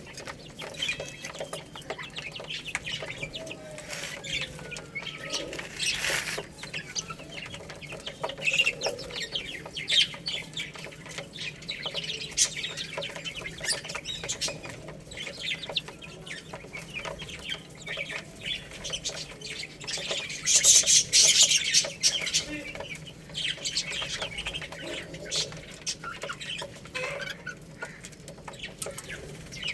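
Baby chicks chirping while pecking at rice, with frequent short sharp taps throughout and a louder rustling burst about two-thirds of the way in.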